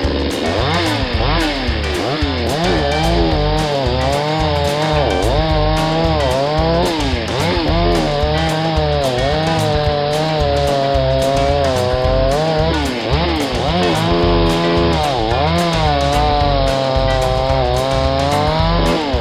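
A chainsaw cutting wood, its pitch dropping and recovering again and again as the chain bites and frees, with guitar music behind it.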